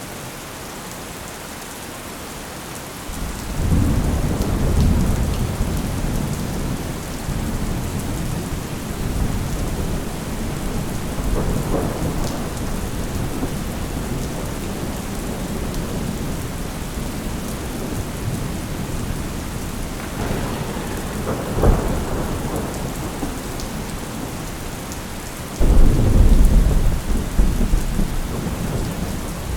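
Thunderstorm: steady rain with rolling thunder. A low rumble builds about three seconds in and rolls on, with sharper cracks near the middle, and a loud, deep clap breaks near the end.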